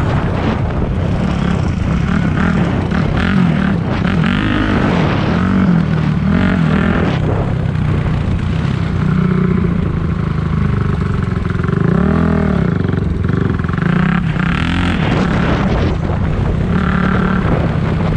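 Four-stroke single-cylinder dirt bike engine being ridden hard, its pitch rising and falling again and again as the throttle opens and closes and the gears change.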